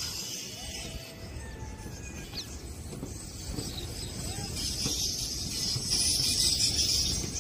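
Train of passenger coaches rolling past on the track: a low rumble with uneven clatter from the wheels, growing louder in the second half, under a steady high hiss.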